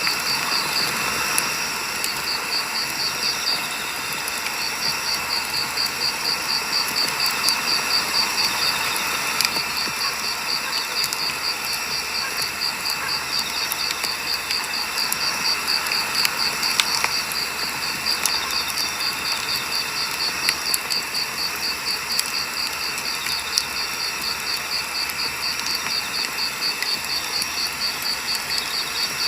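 Firewood burning in a campfire: a steady hiss with scattered crackles and sharp pops. A cricket chirps throughout in a rapid, high, even trill.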